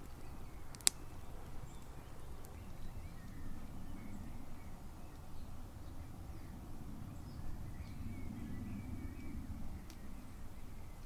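Faint bird chirps over a steady low rumble of outdoor background noise, with one sharp click about a second in.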